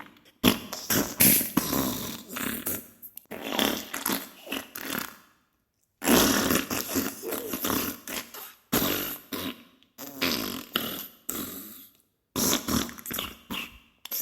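Diarrhea sound effect: wet, sputtering farts that crackle in runs of a few seconds, with brief silent gaps between them.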